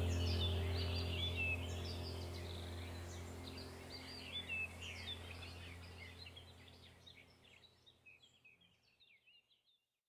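Many birds chirping and singing over a low steady drone. All of it fades out gradually to silence near the end.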